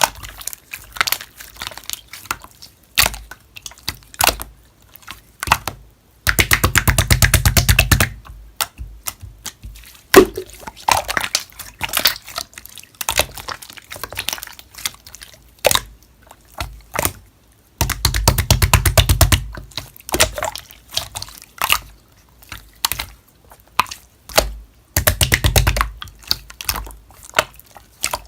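Slime being squished and pressed by hand, making sticky wet clicks and pops. Three times it breaks into a rapid, even run of clicks lasting one to two seconds.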